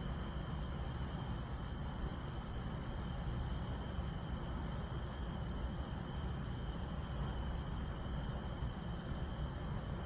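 Night insects such as crickets trilling steadily in several high-pitched tones, one of which drops out for about a second halfway through, over a low steady rumble.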